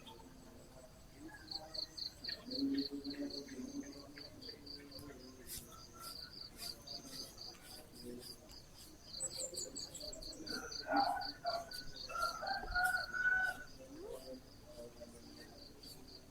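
An insect chirping in a high, fast, even pulse, in two long runs with a short break about halfway. A bird gives a short descending trill about nine seconds in.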